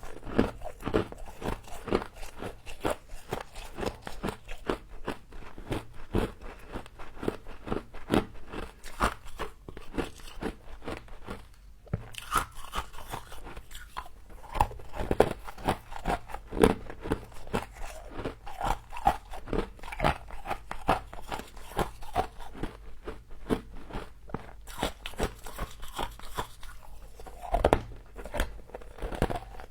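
Frost being bitten and chewed: a steady run of crisp, irregular crunches, with a couple of brief pauses.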